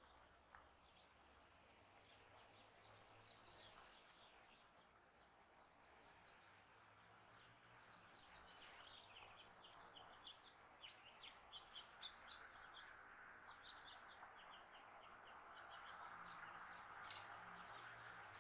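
Faint chirping of small birds: many short, high calls that come thickest about halfway through, over a soft outdoor hiss that grows louder toward the end.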